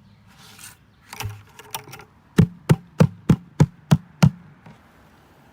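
A trash bucket being knocked: a few light clicks, then seven sharp hollow knocks, about three a second, to shake out an animal clinging inside it.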